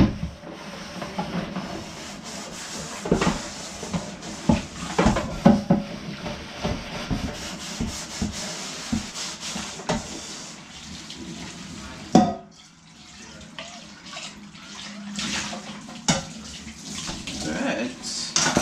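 Water running from a kitchen tap into the sink while a metal pot is scrubbed and rinsed, with frequent knocks of the pot against the sink. The running water drops away briefly about two-thirds of the way through, then starts again.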